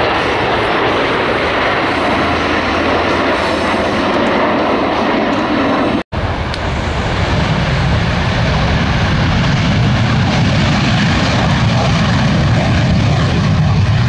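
Loud, steady engine noise of an aircraft flying a display. About six seconds in it drops out for an instant, then returns with a deeper, heavier rumble.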